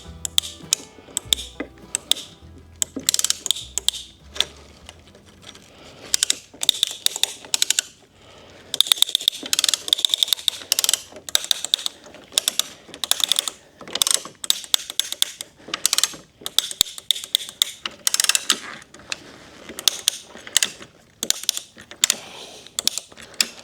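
Strapping tensioner being ratcheted to tighten binding strap around a stack of boards: runs of quick sharp clicks in repeated spurts with short pauses between.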